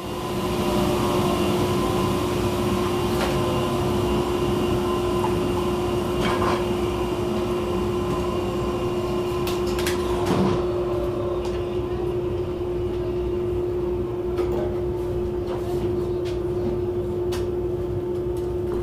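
Woodshop machine running steadily: an even rushing noise with a constant hum that does not change in pitch, with a few light knocks and clicks.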